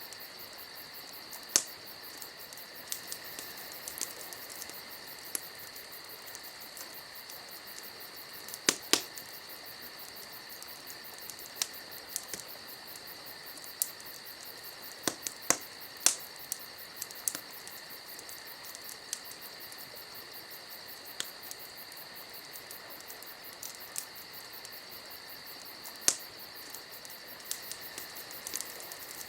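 Wood fire crackling: sharp pops and snaps at irregular intervals, a few loud ones, over a steady high hiss.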